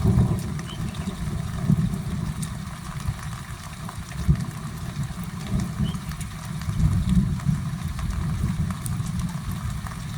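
Low, rolling rumble of thunder that swells and fades several times, under a thin hiss of rain.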